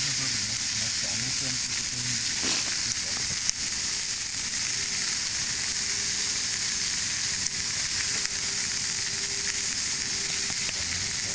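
Food sizzling in an iron pan over a campfire, a steady dense frying hiss with a few sharp pops.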